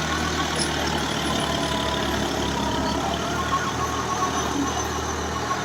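New Holland tractor's diesel engine running steadily with a low, even hum.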